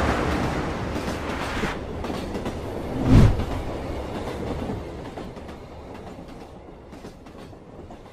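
Train running on rails: a steady noisy rush with a loud low thump about three seconds in, fading away over the last few seconds.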